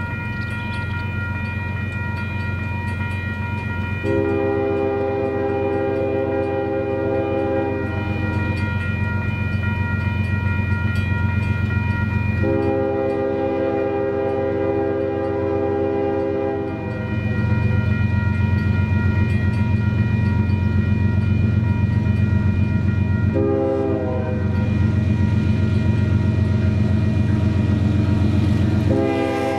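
Union Pacific double-stack intermodal train passing, with the diesel locomotives and wheels making a steady heavy rumble. The lead locomotive's horn sounds long, long, short, long: the standard grade-crossing signal. The last long blast begins near the end.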